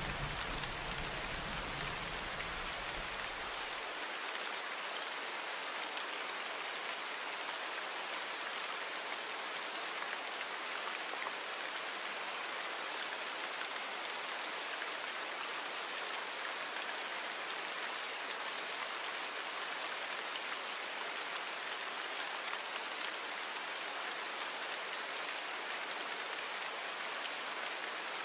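Steady rain falling, an even hiss of drops without let-up. A low rumble underneath stops abruptly about four seconds in.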